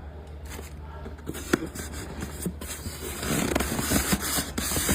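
Blender parts and packaging being handled: scattered light knocks and clicks, then a rough scraping and rustling from about three seconds in.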